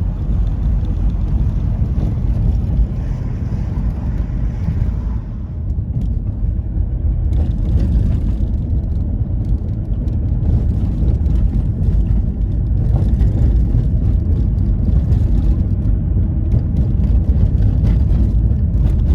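Steady low rumble of a car in motion, heard from inside the cabin: engine and tyre noise.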